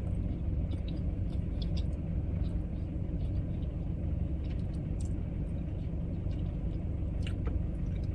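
Steady low rumble of a car heard from inside the cabin, with a few faint scattered clicks.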